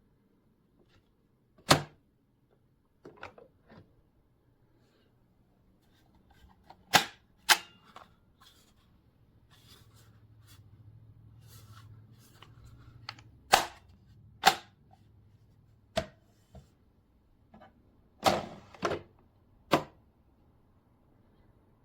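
About a dozen sharp clicks and knocks at irregular intervals, like hard objects being handled and set down, with a faint low hum for a few seconds in the middle.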